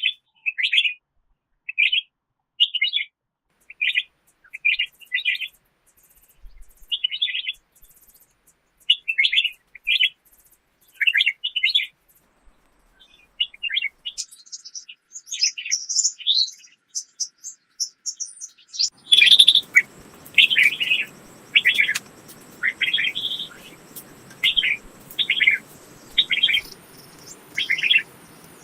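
Small songbirds chirping in short repeated phrases, about one a second, with some higher, thinner notes joining midway. About two-thirds of the way in, a faint steady hiss of outdoor background noise starts suddenly under the chirps.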